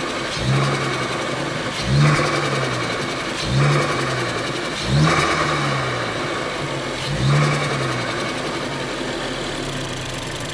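Turbocharged Ford Focus ST engine idling and blipped five times, each rev rising and falling away quickly. Each blip brings a short rush of hissing air, the turbo blow-off through its DV+ diverter valve as the throttle shuts. The engine settles back to a steady idle for the last few seconds.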